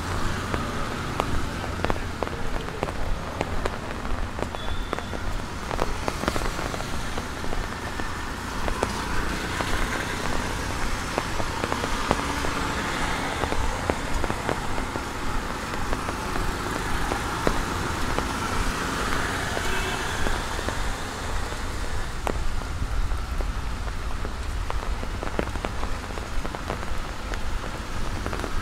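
Steady rain falling on a wet street, with many close drops ticking sharply, and traffic passing on the wet road with tyre hiss.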